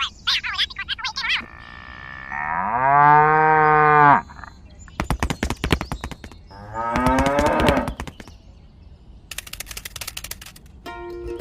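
Cattle mooing: a long low moo about three seconds in and another moo around seven seconds, with shorter higher calls near the start. Two bursts of rapid clicking fall between the calls.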